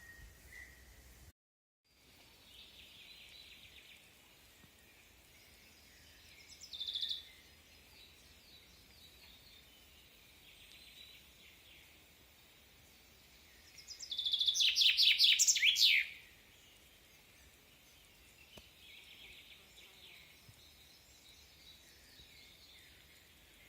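Wild birds singing over a faint background hiss: scattered quiet phrases, a short loud burst about seven seconds in, and the loudest song about fourteen seconds in, a two-second run of quick downward-sweeping notes.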